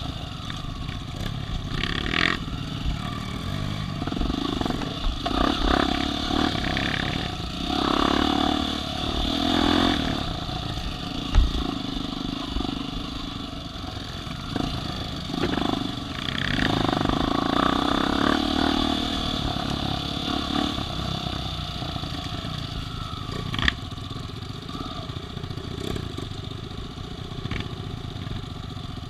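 Off-road vehicle engine running and revving in repeated surges as it works over the trail, with a couple of sharp clanks or knocks.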